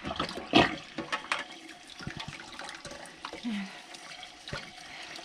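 Tap water running into a sink while a foam air conditioner filter is rinsed under it, with a few knocks and handling sounds; the loudest knock comes about half a second in.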